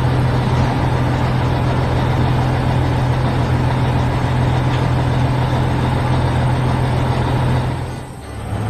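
Heavy construction-vehicle engine running steadily with a deep, even hum. It drops away briefly near the end, then picks up again.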